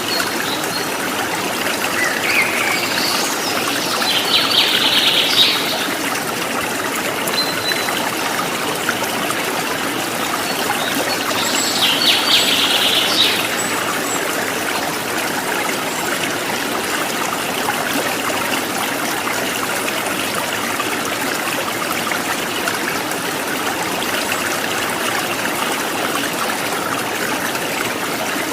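Running water trickling steadily over stones, with small birds chirping; bursts of birdsong come a few seconds in and again about twelve seconds in.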